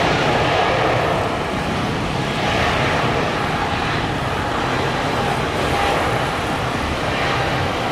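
Boeing 777-300ER's GE90 turbofan engines at takeoff thrust: loud, steady jet engine noise.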